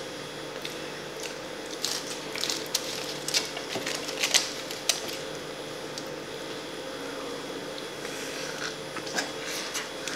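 Close-miked chewing and mouth sounds of someone eating a burger: irregular wet clicks and smacks, bunched in two runs, over a steady low hum.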